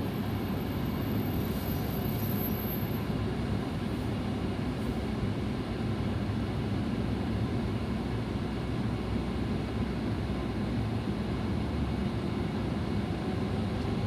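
Steady road and engine noise from inside a moving car's cabin, an even low rumble that does not change.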